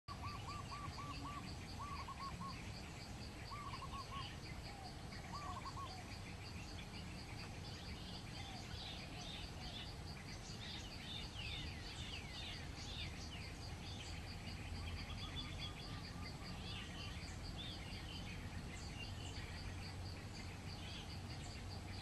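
Wild birds calling: groups of quick, short repeated notes during the first six seconds, then many high chirps and falling twitters, over a steady, rapid, high-pitched pulsing.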